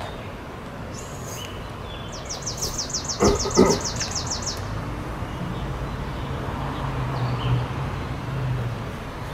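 A rapid, evenly pulsed high trill of a bird for about two seconds, with two loud knocks in the middle of it, then a steady low hum like a passing vehicle's engine.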